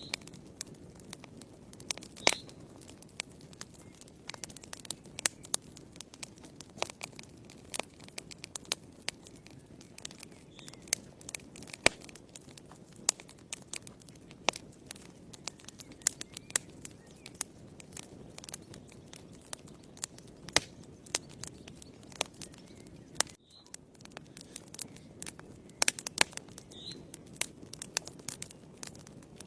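Wood fire burning in a fireplace, crackling with frequent sharp, irregular pops over a low steady rush of flames.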